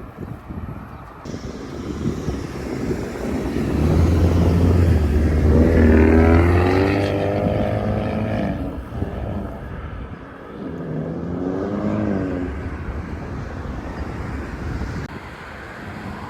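A motor vehicle's engine passing close by, swelling to its loudest and bending in pitch as it goes, then a second, quieter vehicle passing a few seconds later, with wind noise throughout.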